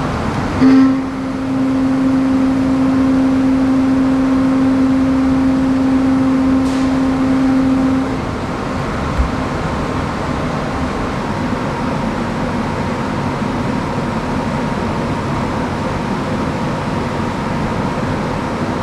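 Steady hum of a moored ship's ventilation and machinery heard in its interior. A loud pitched drone comes in with a short thump about a second in and stops about eight seconds in, leaving the even background hum with a faint whine.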